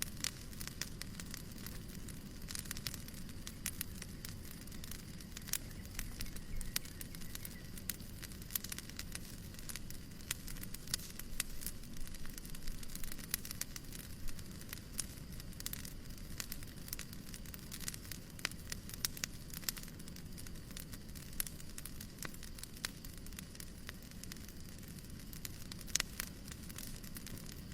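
Wood fire crackling: many small irregular pops and snaps over a steady soft hiss and low rumble.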